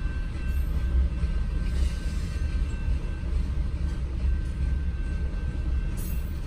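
Long freight train of hopper cars and boxcars rolling past over a level crossing, a steady low rumble heard from inside a stopped car.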